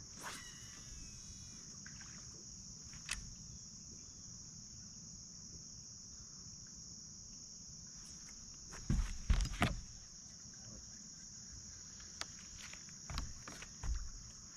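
Steady high buzz of insects trilling, over a low rumble, with a brief falling whine at the start and a few knocks, the loudest a cluster about nine to ten seconds in, while a small bass is caught on a baitcasting rod.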